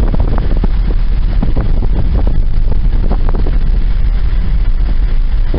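Loud wind rumbling and buffeting on the microphone, with the road noise of a moving car, steady throughout with irregular crackles from gusts.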